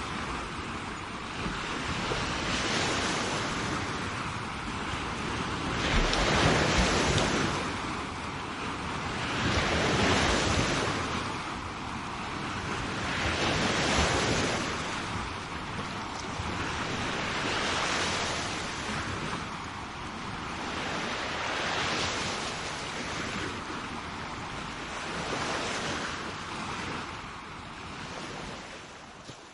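Sea waves washing onto a shore, the surf swelling and receding about every four seconds, fading down near the end.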